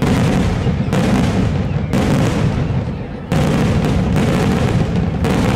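Aerial firework shells bursting one after another: about five loud booms, roughly a second apart, each trailing into a long low rumble and echo.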